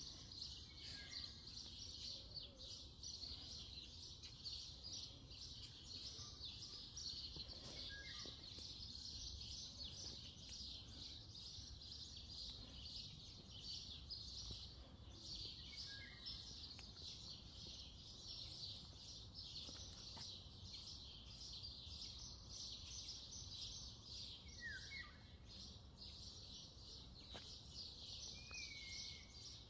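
Faint birdsong: a dense, continuous high twittering chorus. Five short separate chirps stand out from it, spread a few seconds apart.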